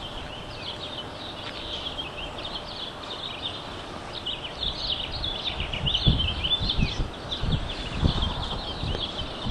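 A chorus of small birds chirping and twittering rapidly and continuously. From about six seconds in, irregular low thumps come in beneath them.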